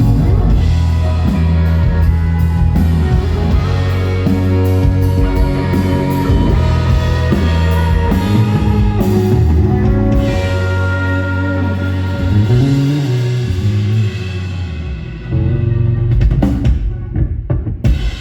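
Rock band playing live with no vocals: electric guitar, bass and drum kit. The playing thins out over the last few seconds and stops at the very end.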